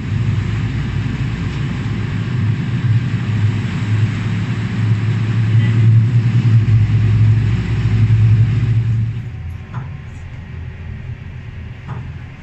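Engine running with a loud, steady low rumble that cuts in suddenly, swells slightly and then eases off about nine seconds in.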